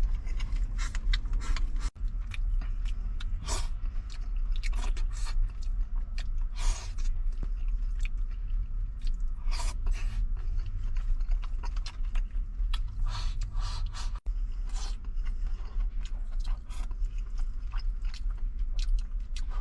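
A person chewing and eating rice mixed with tomato close to the microphone: irregular wet smacks and clicks throughout, over a steady low rumble.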